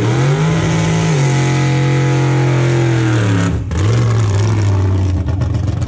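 Chevrolet Camaro's engine revved up and held at high revs during a burnout at the drag-race start line, spinning the rear tyres to warm them before the run. The revs step down about a second in, drop off sharply about three and a half seconds in, and the engine then runs on lower and steady.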